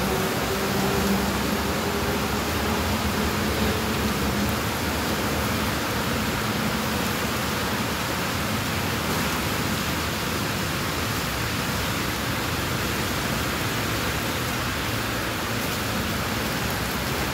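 Heavy rain pouring onto wet paving and the street, a steady even hiss. A faint low hum underneath fades out about four seconds in.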